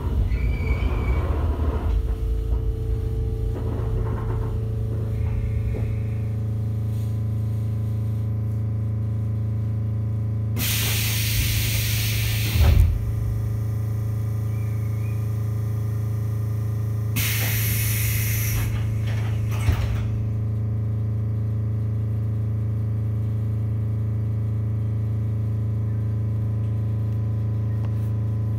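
Echizen Railway MC7001 electric railcar (ex-JR 119 series): a low rumble that fades over the first few seconds, then a steady hum from its on-board equipment. Two loud bursts of air hissing about six seconds apart break in, each ending in a short thud.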